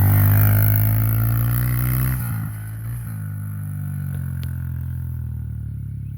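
Dirt bike engine running at steady revs, then dropping back about two seconds in and settling to a lower, steady idle.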